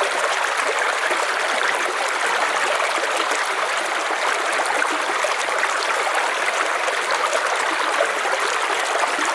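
River water flowing over stones: a steady, even rushing with a splashing, trickling texture.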